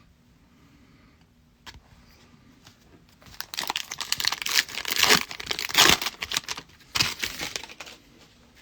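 A trading-card pack's foil wrapper being torn open and crinkled by hand, in two spells of crackling about three and seven seconds in.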